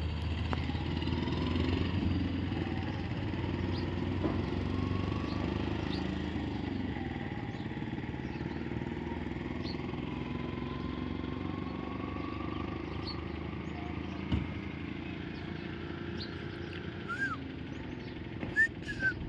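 A steady low rumble like engine or traffic noise, with a few short high chirps near the end.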